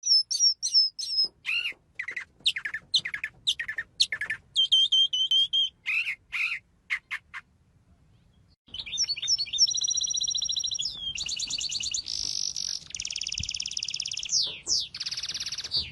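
A bird calling: a quick series of short chirps and whistles, a pause of about a second, then long, rapid trills from about nine seconds in.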